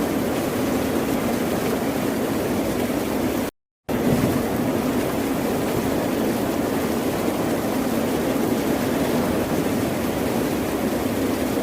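Steady rush of ocean waves and surf, even in loudness with no separate crashes standing out. About three and a half seconds in, the sound cuts out to dead silence for about a third of a second, then resumes.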